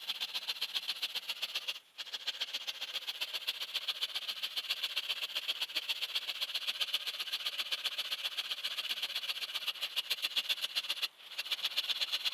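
Hand saw cutting through a tree trunk in quick, even strokes, each stroke a dry rasp. The sawing stops briefly about two seconds in and again near the end.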